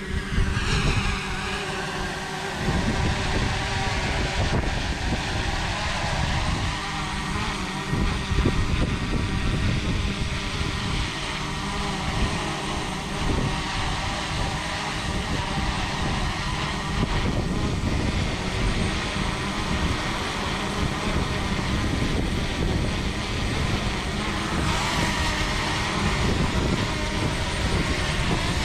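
Small quadcopter drone's propellers whining in a steady stack of tones, the pitch sliding as the motors change speed near the start and again about 25 seconds in. Heavy wind rumble on the microphone runs underneath.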